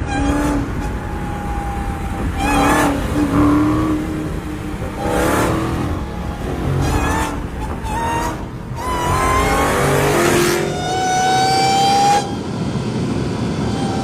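Sports car engines revving and accelerating hard, the pitch climbing and dropping back through several rev-ups.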